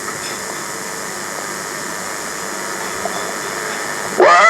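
A steady hissing noise with no pitch in it. About four seconds in, a male reciter's voice comes in loudly, chanting the Quran in a drawn-out melodic style.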